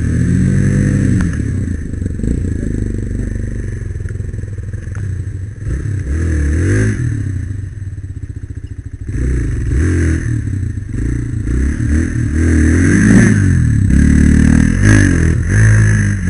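Single-cylinder trail motorcycle engine revving up and down under load, easing to a low steady beat about eight seconds in, then revving again.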